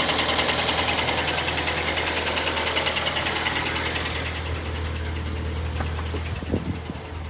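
Hyundai ix35's G4KD 2.0-litre four-cylinder petrol engine idling cold with a fast, even metallic knock: piston slap from worn pistons, which the mechanic expects to need boring out. The clatter grows fainter about two-thirds of the way through.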